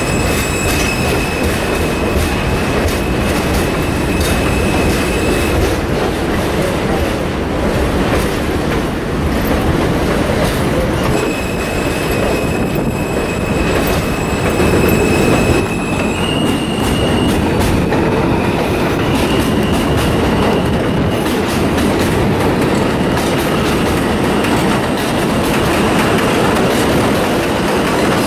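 Train rolling past on steel rails, with clickety-clack and a steady loud rumble. A high wheel squeal comes and goes and shifts higher in pitch about halfway through.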